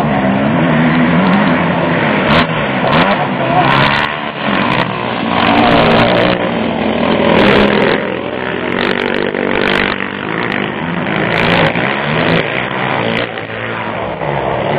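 Several motocross motorcycles racing past, their engines revving up and down as they accelerate and ease off through the track.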